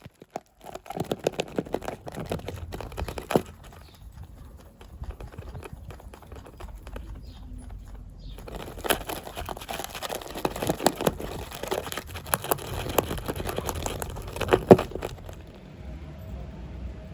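Crinkling and clicking of packaging being handled, in two busy spells, over a low steady hum.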